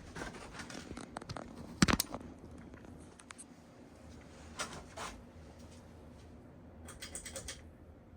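Emerson Pro series ceiling fan running with a faint steady hum, under a series of scratchy clicks and rattles; the loudest click comes about two seconds in.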